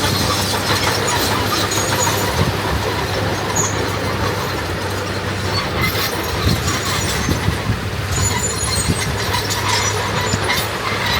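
D21 crawler bulldozer working: its diesel engine runs steadily under a continuous clanking and squeaking of its steel tracks.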